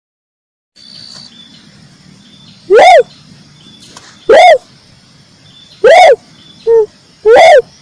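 Red turtle dove calling: loud, short, arched notes repeated about every one and a half seconds, with one shorter, lower note among them, over faint background noise that begins about a second in.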